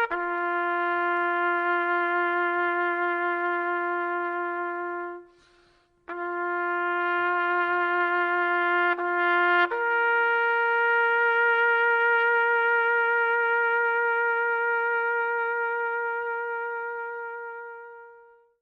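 Solo trumpet playing a slow call of long held notes: a lower note broken off briefly about five seconds in and resumed, then a higher final note held and fading out near the end.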